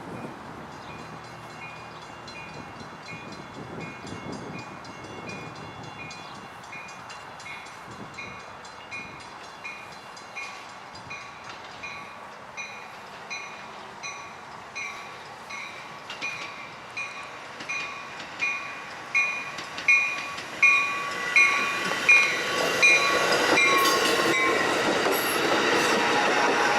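Grade-crossing warning bell dinging steadily, about twice a second, growing louder. In the last few seconds a Metra commuter train arrives and runs past, its rumble and wheel noise rising to drown the bell.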